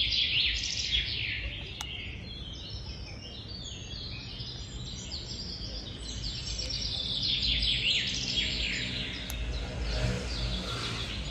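Small birds chirping in quick, dense twittering phrases, busiest near the start and again from about six to nine seconds in, over a low background rumble.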